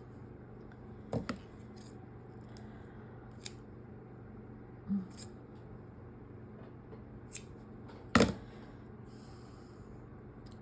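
Scissors snipping thread a few times at irregular intervals, with light clicks of handling; one sharper click late on is the loudest.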